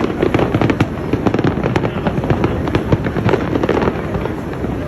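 A dense fireworks barrage: many bangs and crackles a second in an unbroken stream.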